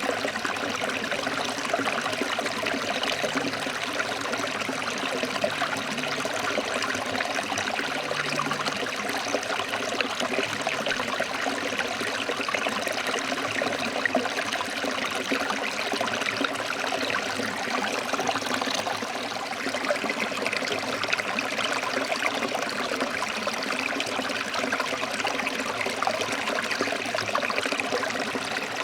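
Forest stream flowing over rocks: steady, even water noise with no breaks or changes.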